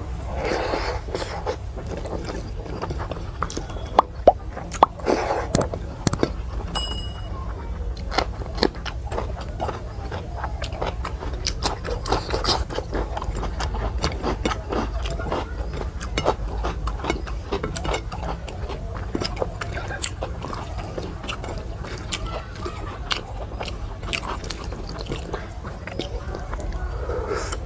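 A person eating close to the microphone: chewing and wet smacking mouth sounds with many short sharp clicks, over a steady low hum.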